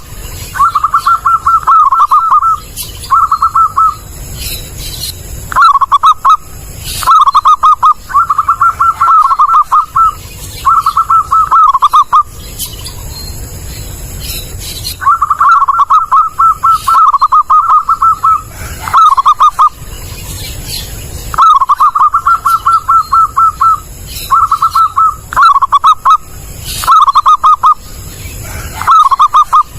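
Zebra dove (perkutut) cooing: loud, repeated phrases of rapid staccato coos, broken by short pauses and one longer pause of about three seconds near the middle.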